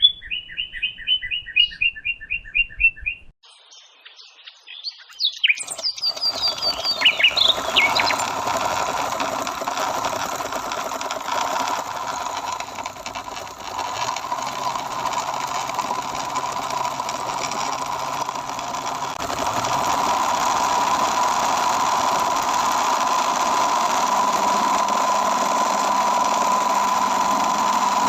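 A quick series of high chirps, then a small motor starts running steadily with a constant whine, getting slightly louder about two-thirds of the way in.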